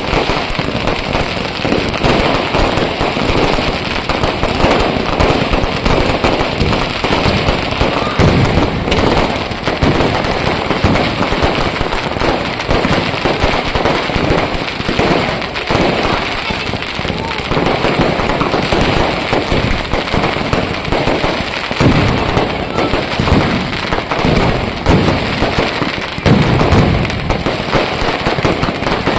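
A continuous barrage of firecrackers and fireworks going off in rapid succession, bang after bang with no pause, with a few heavier booms about two-thirds of the way in and near the end.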